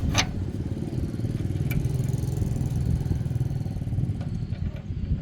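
An engine running steadily, with a sharp click just after the start and a lighter one about two seconds in.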